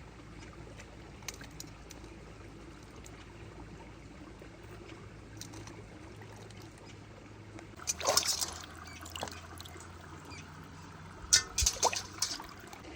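Water trickling and being poured in two short bursts, about eight and eleven seconds in, over a steady quiet background.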